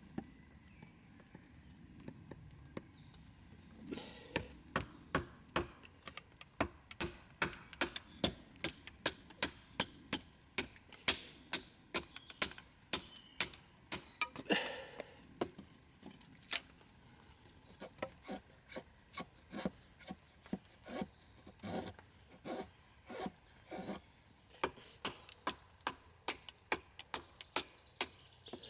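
Hand tool working a piece of damp dead wood in rhythmic strokes, about two a second, starting a few seconds in and pausing briefly now and then.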